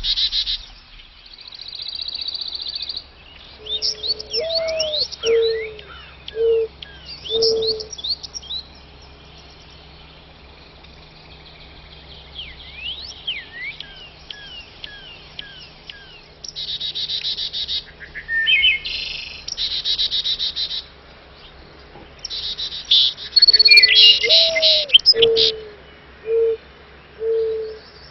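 Wild songbirds chirping and trilling, with many short high calls and whistled down-slurs. A low four-note call, its first note rising, comes twice, once early and again near the end.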